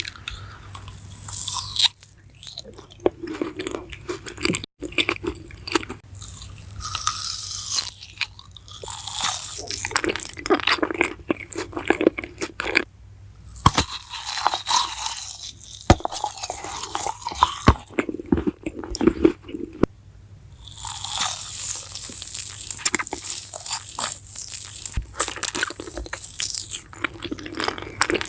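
A person biting into and chewing crunchy food, in irregular runs of crunching with short pauses between.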